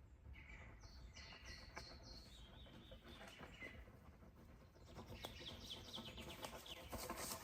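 Faint songbird calls in a forest: a short run of about five high notes a second in, then a quicker series of chirps around five seconds in.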